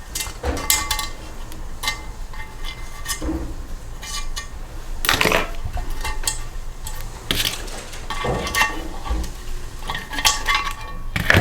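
Metal hand tools and small steel engine parts clinking and clattering on a bench, a series of irregular knocks and clinks, some with a brief metallic ring, while the valves are being taken out of a small Briggs & Stratton engine.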